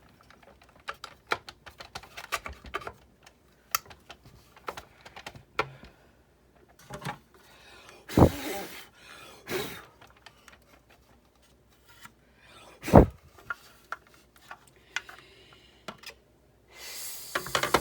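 Parts of a Sizzix Big Shot die-cutting machine being handled and fitted back together: scattered light clicks and taps, with two louder knocks in the middle.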